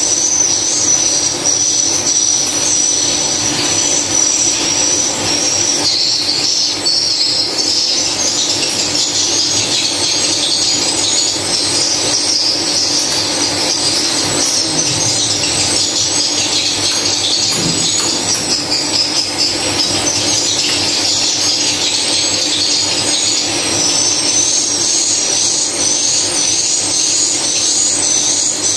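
Dense, continuous high-pitched chirping and twittering of swiftlets, with quick repeated chirps toward the end, over a steady low hum.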